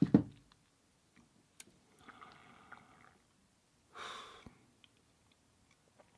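A man's breathing noises at close range: a short throaty vocal sound at the start, then a faint breath and a sharper exhale or sniff about four seconds in.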